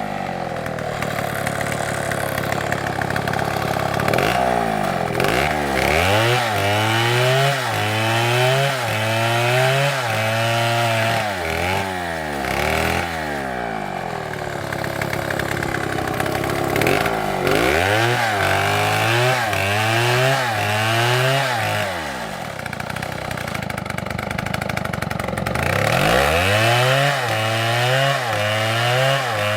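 STIHL two-stroke chainsaw cutting wood, its engine pitch repeatedly rising and falling as it is throttled up and loaded in the cut. The revs drop back twice, in the middle and a few seconds before the end, then climb again.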